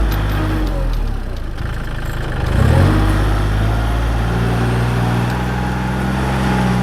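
Engine of a heavy vehicle running steadily close by. Its note dips and swells briefly about two and a half seconds in, then settles back to a steady run.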